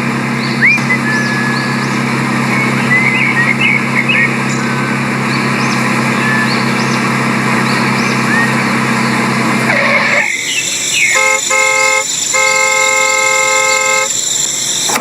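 A steady engine hum with high chirps over it. About ten seconds in the hum stops, and a vehicle horn sounds two short toots and then one long blast.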